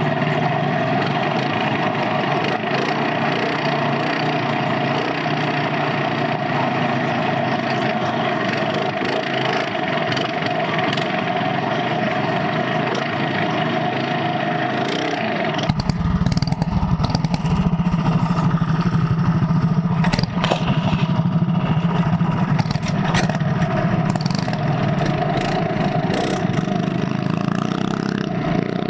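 Minibike engine running hard at a steady pitch. About halfway through, the sound changes abruptly to a deeper engine note with a heavy low rumble.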